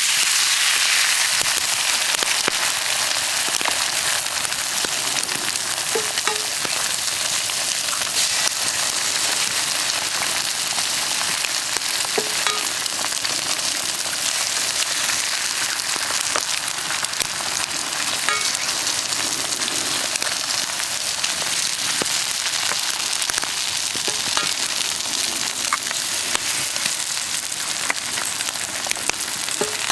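Food frying in a pan over a campfire: a steady sizzle with scattered small pops and crackles.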